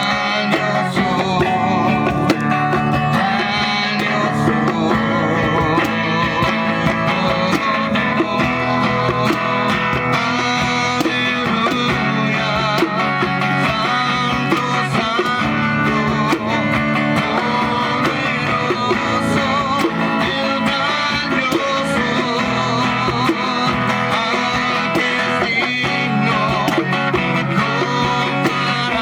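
Music led by a strummed guitar, playing steadily.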